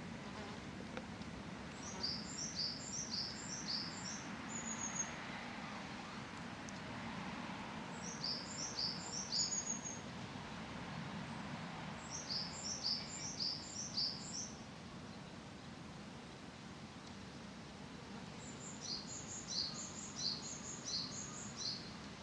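A songbird singing four phrases, each a quick run of high, down-slurred whistled notes, about three a second, over a steady low background hum.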